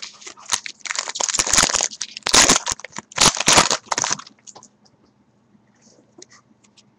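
Baseball card pack wrapper crinkling and tearing in about three loud bursts over some four seconds, followed by faint handling of the cards.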